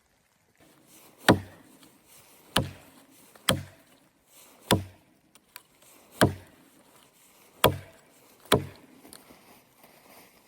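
Axe chopping wood: seven sharp blows, about one every second or so, each landing with a dull thud.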